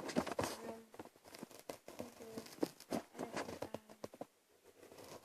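Pens and paper handled while drawing: irregular light taps, scratches and rustles.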